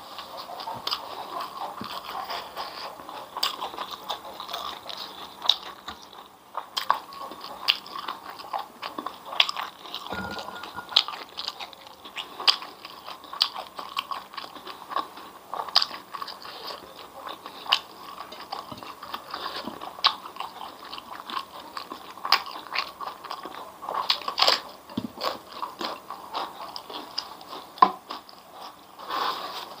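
Close-miked eating: a person biting and chewing crisp, crunchy food, with many sharp irregular crunches.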